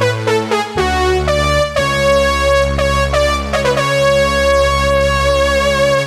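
Yamaha SY77 synthesizer playing a keyboard patch: sustained chords over held bass notes, changing chord a few times, then stopping and dying away quickly at the very end.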